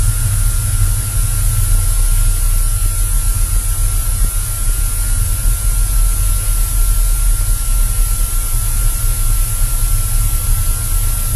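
Cessna 172 engine running steadily, heard as a heavy low rumble under a hiss, with one thin steady whine held at a single pitch.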